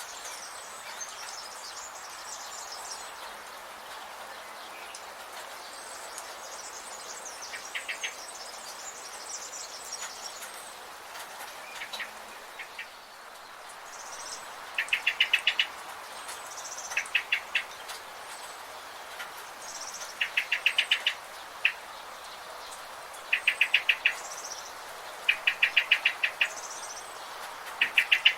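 Forest birds calling: one bird repeats short, fast trills of about eight notes every two to three seconds through the second half, over thin high chirps from other birds and a steady background hiss.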